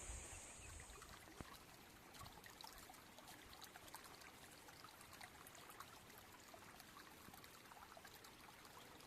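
Faint trickling water, a low even patter of tiny droplets, with a high steady hiss that stops about a second in.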